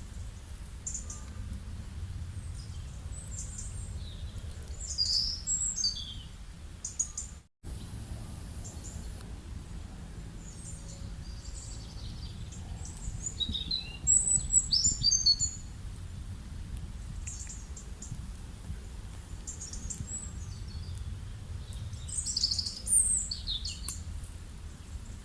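Birds chirping and trilling in short clusters, a few calls at a time, over a steady low rumble of outdoor background noise. The sound cuts out completely for an instant about seven and a half seconds in.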